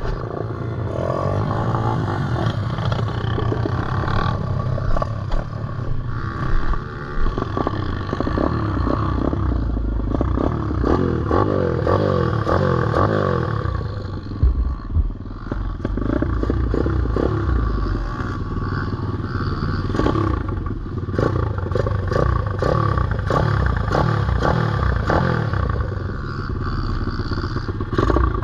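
Single-cylinder four-stroke pit bike engine being ridden off-road, revving up and falling back again and again as the throttle is worked. Frequent short clattering knocks from the bike run through it.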